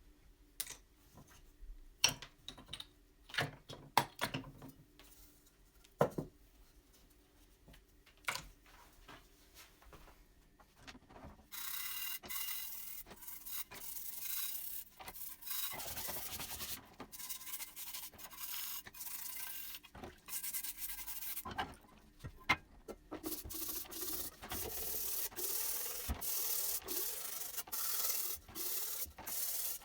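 A few scattered clicks and knocks of parts being handled, then from about a third of the way in a continuous abrasive rubbing, as of sanding, on the lamp's parts, with a brief pause about two-thirds through.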